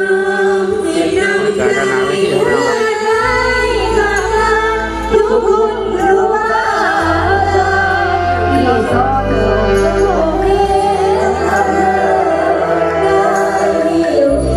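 A woman singing Isan lam phloen with live band accompaniment, her voice sliding and ornamenting over held bass notes that change every few seconds.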